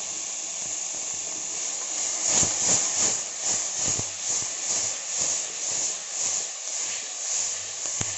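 Chopped tomatoes and onions sizzling in hot oil in a pressure cooker. From about two seconds in they are stirred with a spoon, and the sizzle swells with each stroke, about two to three strokes a second.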